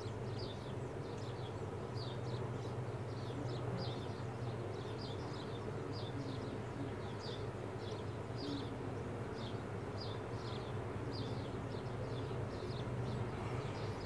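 Baby bird peeping: faint, short, high chirps that fall in pitch, repeated about twice a second, over a low steady hum.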